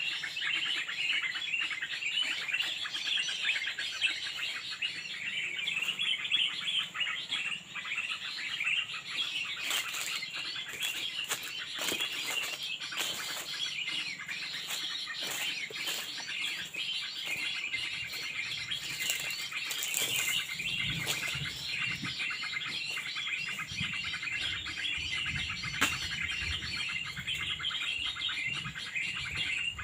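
Dense, continuous chirping of many small birds, high-pitched and unbroken. Scattered sharp clicks join in from about a third of the way through, and low rustling and knocks come in the later part.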